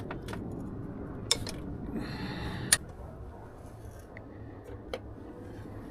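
Metal hand tools and engine parts clinking: a few sharp separate clicks, the loudest about three seconds in, with a short scraping rasp just before it.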